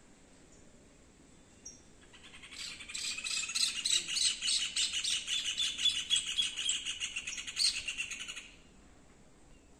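A bird's rapid, high chirping trill. It builds up over about a second, runs on for about six seconds, then stops suddenly.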